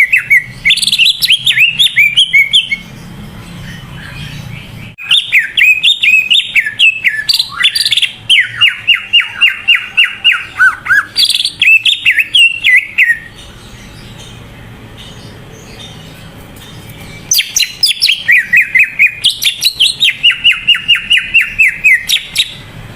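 Cucak ijo (leafbird) singing loudly in three bursts of rapid, repeated whistled notes and trills, separated by short pauses. The song is of the kind played to prime other cucak ijo into singing.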